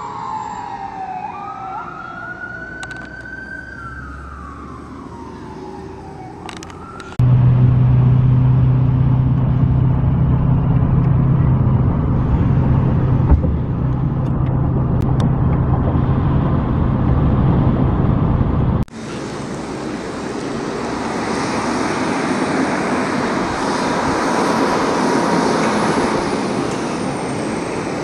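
Fire truck sirens wailing, their pitch sliding up and down. About seven seconds in, a sudden cut to a much louder steady engine hum from a fire truck. Near two-thirds through, another cut to even traffic noise with a faint siren tone.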